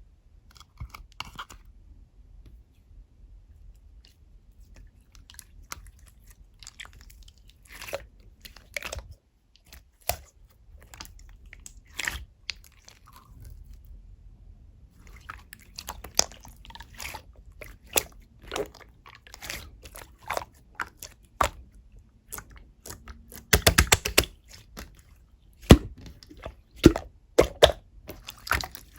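Chewy, clear slime being stretched, pressed and poked by hand, giving irregular sticky clicks, pops and squelches. The pops come sparsely at first, then more often, with a louder cluster of pops about four-fifths of the way through.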